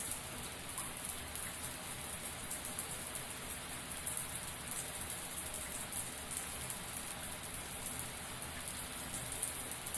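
Shower water spraying and pattering down in a steady, even hiss with many small drop ticks.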